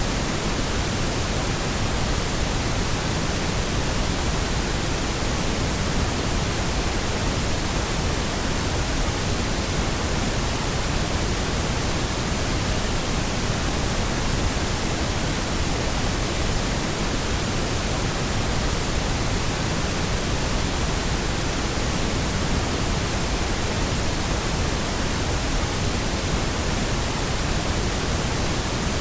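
Steady, unchanging pink noise: an even hiss spread across the whole range, with no other sound.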